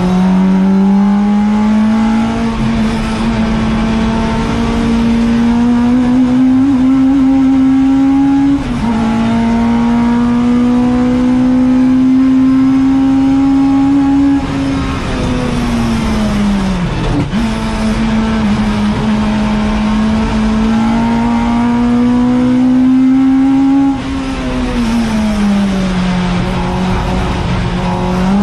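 Ford Fiesta ST150's 2.0-litre four-cylinder engine at full throttle, heard from inside the race car's cabin. The pitch climbs steadily, dips briefly at an upshift about eight seconds in and climbs again. It then falls as the car brakes and changes down around the middle, pulls up again, and drops once more a few seconds before the end.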